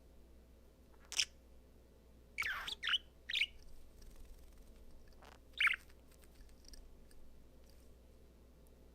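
Budgerigar giving short, scattered chirps: one about a second in, a quick run of three a little later, and one more past halfway.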